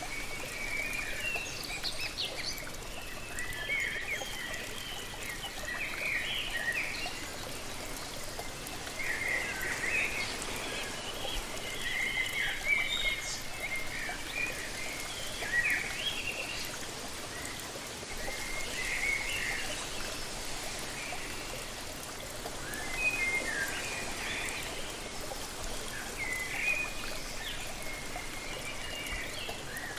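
Steady rush of falling water from a waterfall, with birds chirping over it in short clusters of calls every second or two.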